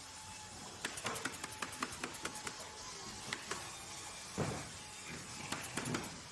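Workshop machinery and tool noise: a quick, irregular run of sharp clicks and taps lasting about two seconds, followed by two short whooshing sweeps over a low mechanical hum.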